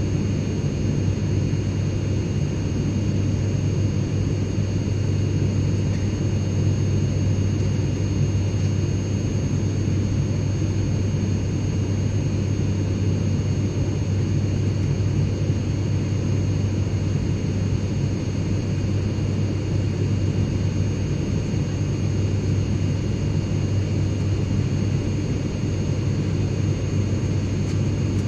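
Steady in-flight airplane cabin noise: a constant low rumble with a few faint, steady high-pitched whines over it, unchanging throughout.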